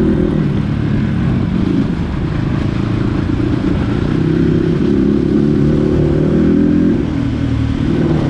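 Dirt bike engine running under way, its revs rising and falling with the throttle, climbing through the middle and dropping about seven seconds in.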